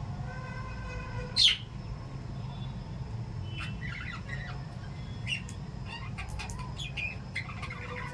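Pet lovebirds and budgies chirping in short, scattered calls, with one sharp, loud call about a second and a half in and a busier run of chirps in the second half. A steady low hum runs underneath.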